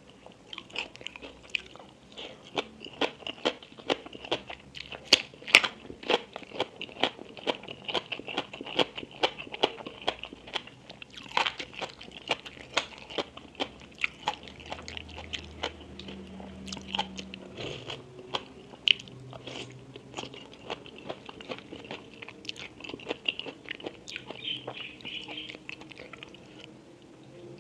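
Close-miked crunching and chewing of crisp food in a mukbang meal of papaya salad with chicken feet and bitter melon. Rapid sharp crunches come thick in the first half and thin out into softer chewing later on.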